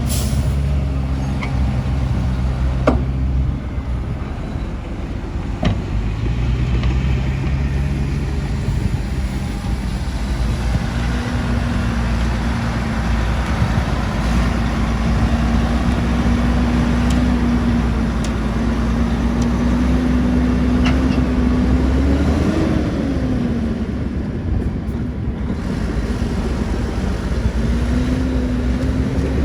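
Diesel engines of heavy earthmoving machinery running steadily, with a brief rise and fall in engine pitch about 22 seconds in and a few sharp knocks.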